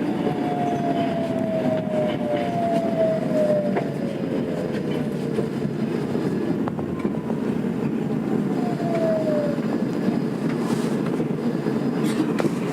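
Tokyo Metro 02 series train with IGBT inverter control, heard from inside the car as it slows on the approach to a station. The motor whine falls in pitch over the first five seconds and again briefly near ten seconds, over the steady rumble of wheels on rail.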